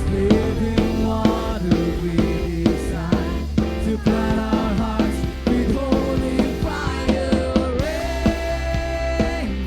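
A band playing upbeat rock-style worship music, with a steady drum-kit beat, bass and sustained melodic notes.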